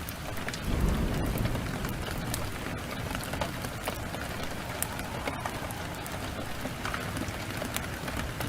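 Steady heavy rain, with scattered sharp crackles from a wood fire and a short low rumble of thunder about a second in.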